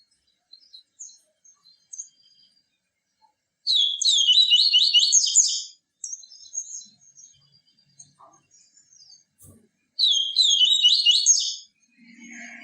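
Papa-capim (yellow-bellied seedeater) singing: two bursts of rapid, high, repeated notes about six seconds apart, with faint scattered chirps between them.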